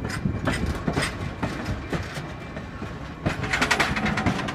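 Passenger train rolling slowly, its steel wheels clicking over the rail joints, the clicks coming in a quicker run about three seconds in, over a low rumble.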